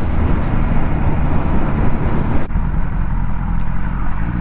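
Motorcycle engine and wind noise heard on a rider's helmet microphone while riding, a steady loud rush. About two and a half seconds in there is a brief dip, and after it the sound is lower and duller.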